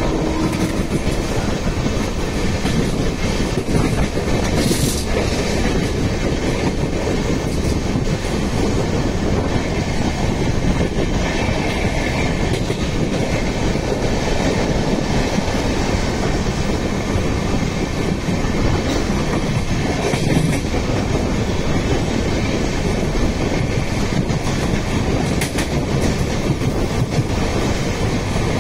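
Mumbai suburban local train running along the track: a steady, loud noise of wheels on rails.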